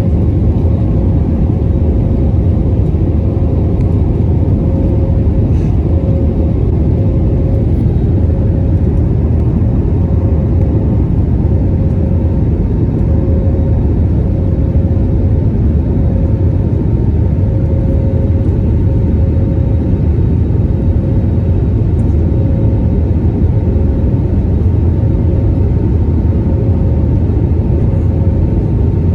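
Steady, loud cabin noise inside an Airbus A321 just after takeoff: a deep engine and airflow rumble with a faint steady whine running through it.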